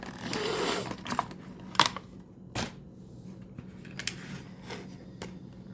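Toy packaging and a diecast model truck being handled: a rustling scrape in the first second, then several separate sharp clicks.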